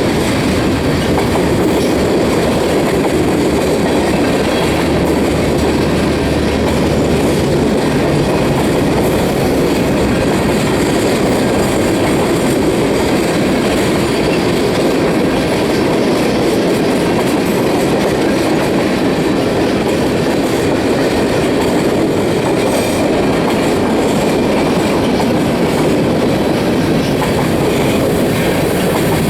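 Freight train cars rolling past on the rails: a steady rumble of wheels on track, with a low hum underneath for a few seconds near the start.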